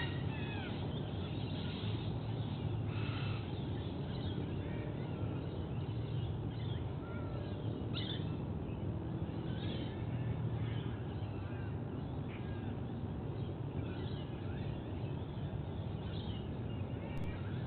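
Short bird calls and chirps, scattered and irregular, over a steady low background rumble.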